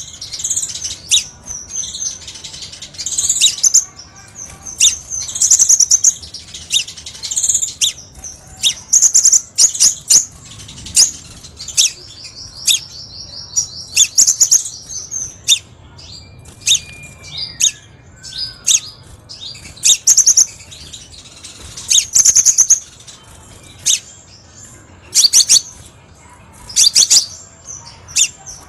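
Sunbird (kolibri sepah raja) song: a rapid string of high, sharp chirps and ticks with a fast, even trill in the middle. It is played as a masteran and lure recording to train or attract sunbirds.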